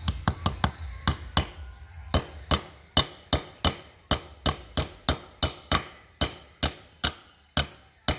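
Hammer striking metal in a steady series of sharp blows, a quick cluster at first, then about two or three a second, each with a short ring.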